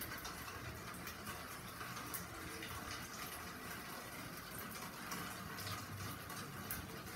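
Steady rain falling: an even hiss with scattered drips ticking through it.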